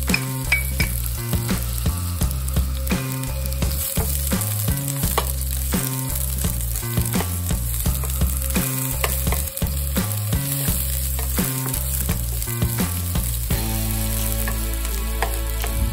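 Sliced onions sizzling as they fry in hot oil with browned garlic in a nonstick frying pan, stirred with a wooden spatula that clicks and scrapes against the pan many times.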